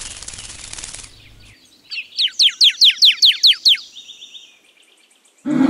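Northern cardinal singing: a run of about ten quick down-slurred whistles, about five a second, trailing off into a faint short trill. Faint background hiss comes before the song, and a loud low sound cuts in at the very end.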